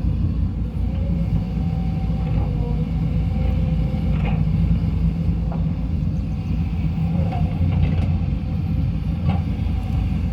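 Hydraulic excavator's diesel engine, the SANY SY200C's Mitsubishi 4M50, running steadily under working load with a deep rumble, and a few faint clicks now and then.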